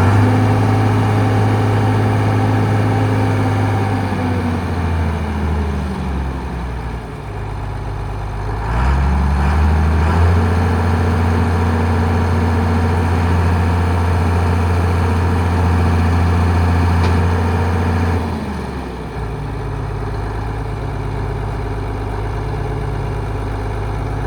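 John Deere 4350 tractor's six-cylinder diesel engine held at raised speed, dropping back after a few seconds, revving up again about nine seconds in and holding steady, then settling back down to idle near the end.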